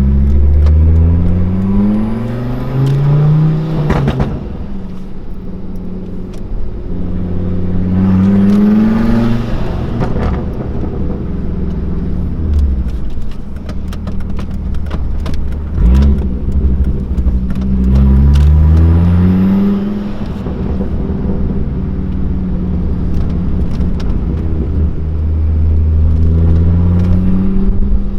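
Straight-piped Volvo S60R's turbocharged 2.5-litre five-cylinder engine climbing in revs four times. Each time the revs fall back there are sharp pops and crackles from the exhaust.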